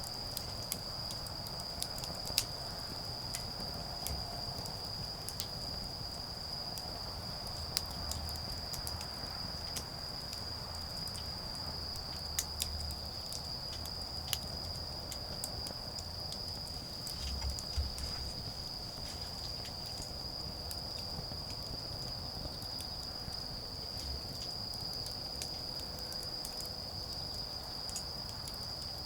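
Autumn insects calling in a steady, unbroken high-pitched trill, with a wood fire crackling and popping in scattered sharp snaps.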